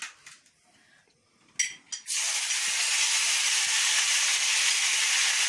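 Hot cooking oil frying, a loud, steady sizzle that starts abruptly about two seconds in as chopped tomatoes are scraped off a plate into the pan. A short clatter comes just before it.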